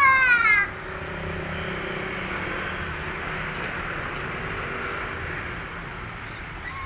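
A high-pitched cry falling in pitch ends about half a second in, and another begins right at the end. Between them runs a steady background noise.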